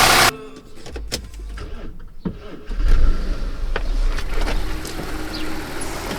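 Audi A8 D3 engine idling quietly after the repair of its timing-chain tensioner, with light clicks typical of the fuel injectors ticking. A louder sound cuts off abruptly just after the start, and the low idle hum grows stronger about two and a half seconds in.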